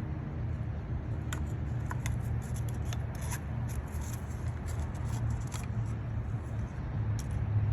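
Faint scattered clicks and small scrapes of a sharp pick working the old rubber seal off the plastic oil filter housing cap, over a steady low hum.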